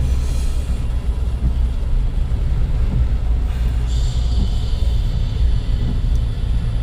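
Suzuki Jimny on the move: a steady low rumble of engine and road noise. A higher hiss swells for a couple of seconds in the middle.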